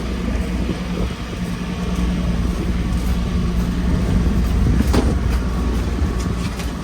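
A motor vehicle's engine running close by: a steady low rumble with a hum that eases off near the end, and one sharp click about five seconds in.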